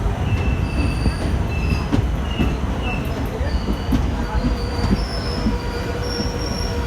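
Indian Railways passenger train running, with a steady low rumble and repeated short, high-pitched wheel squeals that come and go every second or so.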